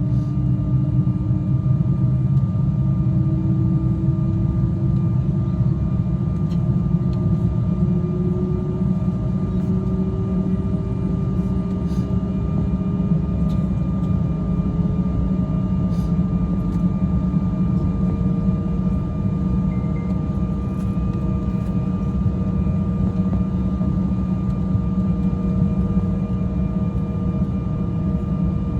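Cabin noise of an Embraer 175 taxiing, its CF34 turbofan engines running with a steady low rumble. A whine rises slowly in pitch over the first fifteen seconds or so, then holds steady.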